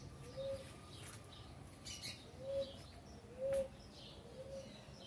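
Birds calling: a short, low, arched note repeated roughly once a second, with faint higher chirps over it.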